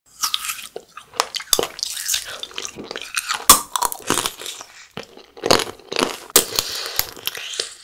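Crunching and chewing as frozen jelly candies and eyeball-jelly tanghulu are bitten: the hardened sugar-syrup shell cracks sharply, with wet chewing in between. The loudest crack comes about three and a half seconds in.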